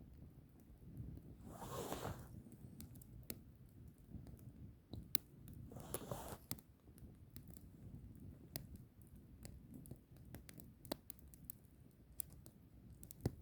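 Firewood burning: scattered crackles and pops over a low rumble, with two brief hissing rushes about two seconds and six seconds in.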